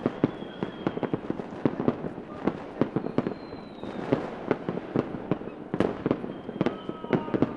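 Fireworks going off: a dense, irregular string of sharp pops and cracks, with faint thin whistles.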